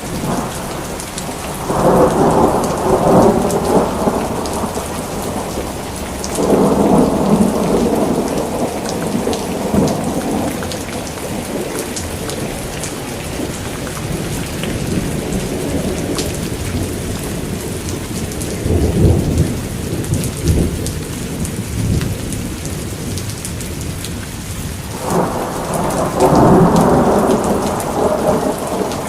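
Steady rain falling, with thunder rolling four times, each rumble swelling and fading over a few seconds.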